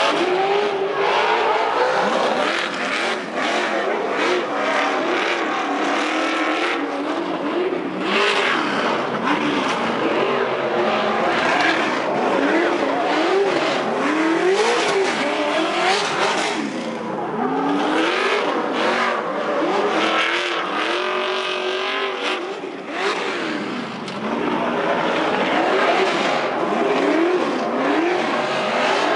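Trophy truck engines revving hard, their pitch rising and falling over and over about once a second, as the trucks are driven hard.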